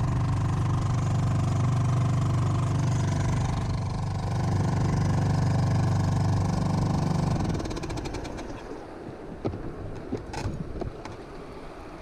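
Small 2-horsepower outboard motor running steadily, then stopping about seven and a half seconds in, leaving a few light knocks over a soft background noise.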